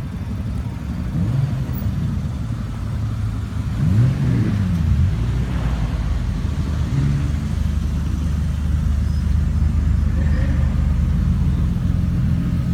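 Car engine running at a low, steady idle, blipped up and back down about four seconds in and briefly once before that.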